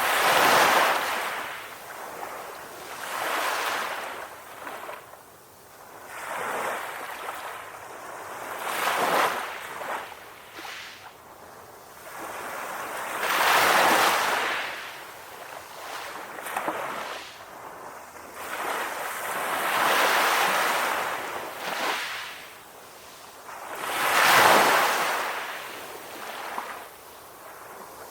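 Ocean waves breaking and washing up on a shore, each swell of hissing surf rising and falling every few seconds, with no steady rhythm.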